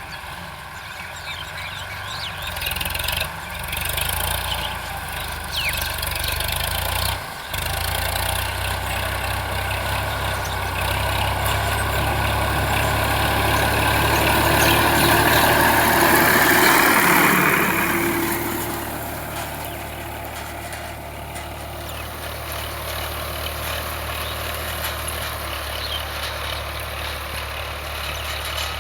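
Sonalika DI 745 tractor's diesel engine running steadily. It grows louder about halfway through, then settles back to a steady run.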